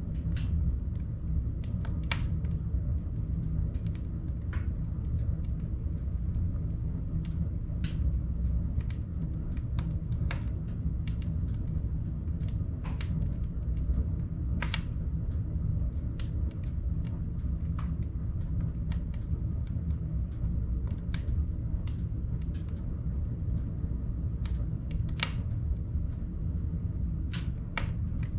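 Steady low rumble with scattered sharp clicks at irregular intervals.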